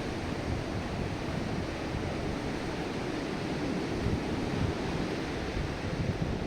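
Strong wind buffeting the microphone over the rush of surf on the beach: a steady rushing noise with choppy low rumbling gusts.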